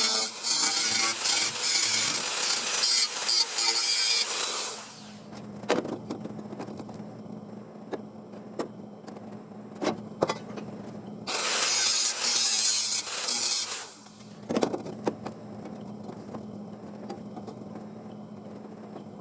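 A power tool working sheet steel in two bursts, the first about five seconds long and the second about two and a half, with clicks and knocks of handling the panel between them.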